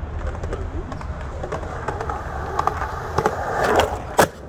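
Skateboard rolling with a steady rumble and scattered clicks from the wheels. A rush of noise builds about three and a half seconds in, and the board gives one sharp clack just after four seconds.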